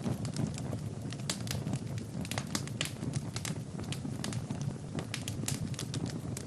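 Fire burning in a fireplace, crackling with many irregular sharp pops over a low steady rumble.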